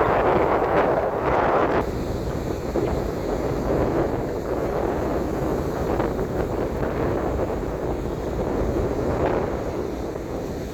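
Strong storm wind buffeting the microphone over breaking sea surf. It is loudest for the first two seconds, then drops suddenly to a steadier rush of wind and waves.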